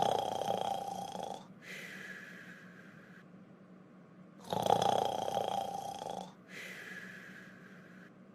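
Cartoon snoring sound effect: two slow snore cycles, each a loud rasping inhale followed by a quieter, whistling exhale.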